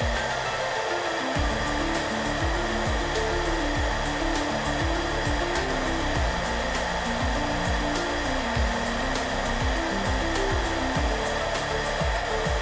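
Hair dryer blowing with a steady rushing whir, under soft background music of slow low notes and a light regular beat.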